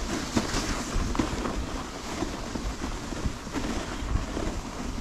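Wind rumbling on the microphone of a moving dog sled, a steady rushing noise with faint scattered ticks.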